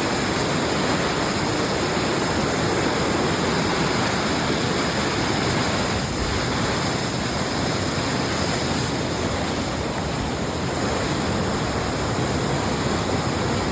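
Fast-flowing water rushing steadily, an even unbroken noise.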